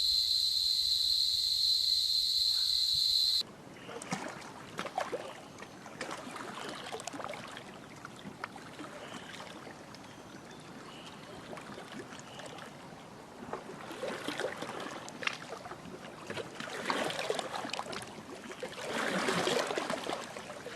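A steady, high-pitched cricket or cicada drone cuts off suddenly a few seconds in, giving way to irregular water splashing and trickling with small clicks, swelling louder near the end.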